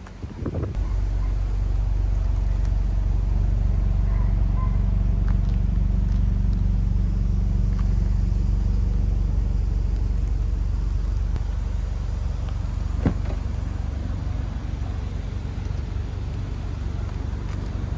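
Toyota GR86's 2.4-litre flat-four boxer engine starting about half a second in, then idling steadily with a low, even drone. The idle eases a little lower after about eleven seconds, and there is a single sharp click a couple of seconds later.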